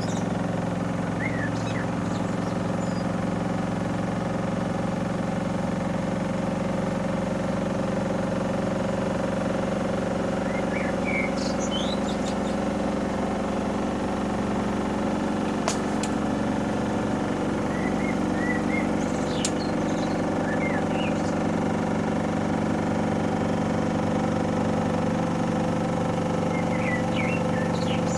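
Panasonic NA-147VB2 inverter washing machine in its final spin, the drum turning at a steady speed with a steady motor hum and whine. A single sharp click about sixteen seconds in.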